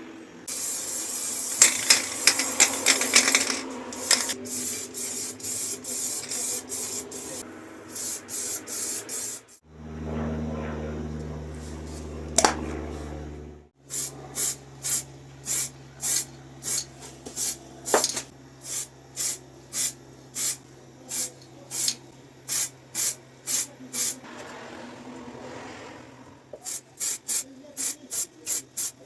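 Paint being sprayed onto a restored pipe wrench in many short hissing bursts, about one or two a second, with a steady low hum beneath them through the middle.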